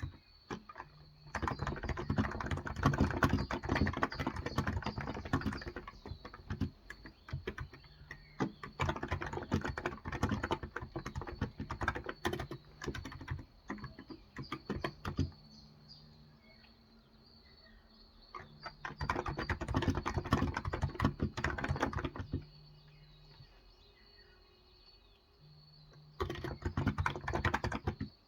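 Typing on a Cox Endeavor electrostatic capacitive (topre-style) tenkeyless keyboard with 35 g switches. Fast runs of keystrokes come in four bursts, with pauses of a few seconds between them.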